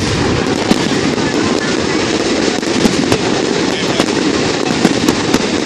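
Fireworks display: a rapid, irregular run of sharp bangs and pops over a continuous din of distant bursts and crowd noise.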